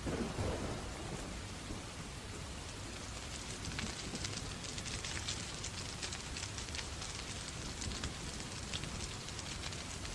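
Steady rain falling, mixed with the crackling of a fireplace fire: many small sharp pops throughout. A brief louder, lower rumble comes right at the start.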